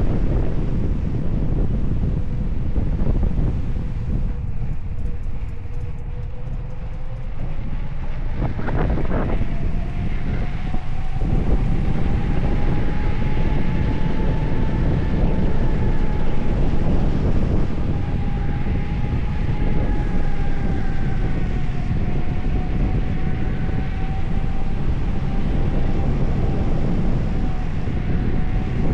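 Wind buffeting the microphone in a steady rush, with a thin whine underneath that slowly rises in pitch and then wavers.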